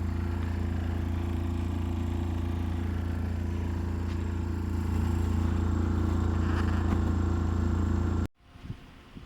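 Steady machine hum with an even low drone, slightly louder about halfway through, then cut off abruptly near the end, leaving only a few faint clicks.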